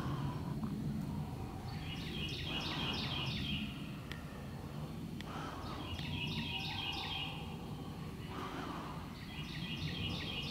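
A songbird singing the same short phrase of quick high notes three times, roughly every three and a half seconds, over a steady low background rumble.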